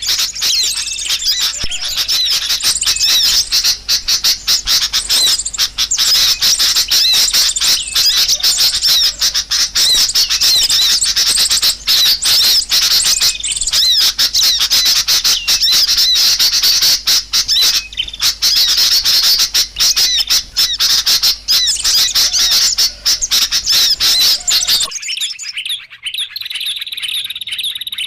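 Small-bird lure calls: many overlapping high chirps and squeaks of small birds, dense and continuous. Near the end the sound switches abruptly to a sparser, cleaner stretch of calls.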